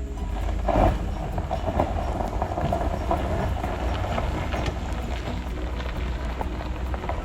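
Pickup truck driving on a rough road while towing a boat trailer: a steady low rumble with continuous rattling and clatter, loudest about a second in.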